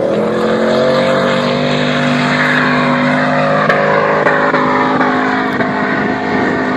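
Off-road 4x4's engine at full throttle, its pitch climbing at the start and then held at high, steady revs under load, as on a sand-dune climb.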